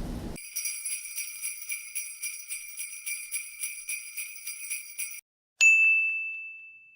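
Jingle bells shaken in a steady rhythm for about five seconds as a sound effect. They stop, and after a short pause a single bright ding rings and fades away.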